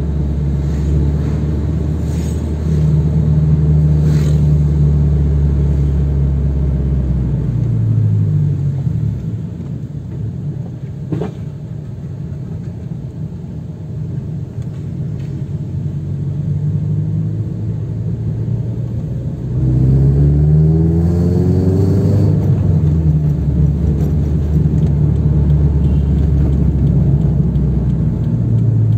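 Toyota FT86's flat-four engine heard from inside the cabin while driving, with road noise: a steady cruise, easing off with falling revs about eight seconds in, then revving up strongly around twenty seconds in before settling back to a steady pull.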